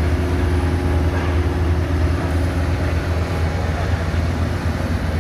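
Truck engine running steadily, a constant low drone with no revving.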